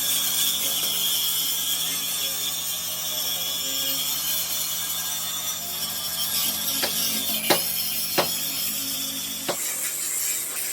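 Steady hum of workshop machinery with a high hiss, broken in the second half by three sharp knocks; the hum cuts off at the last knock.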